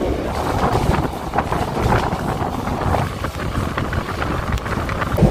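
Passenger train running along the track: a steady rumble with scattered sharp clicks of the wheels over the rails, with some wind on the microphone.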